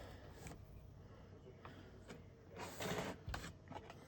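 Faint small handling noises at a model-building bench: a brief rustle between two and a half and three seconds in, and a few light clicks.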